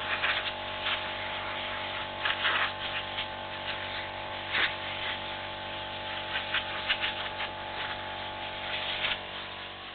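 MTZ-892 tractor's diesel engine running steadily at idle, with irregular short scratchy rustling noises over it every second or so.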